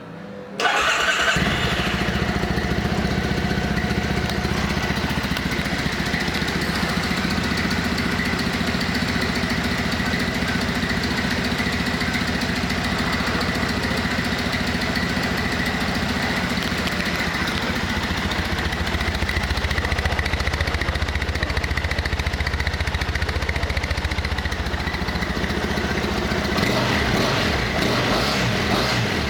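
2014 Triumph Bonneville T100's air-cooled 865 cc parallel-twin engine starting about a second in, then idling steadily.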